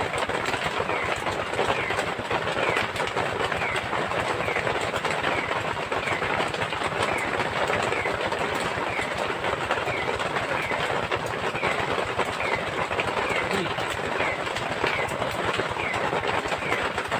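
Heavy rain falling steadily around the hut, with a short falling chirp repeating every half second or so.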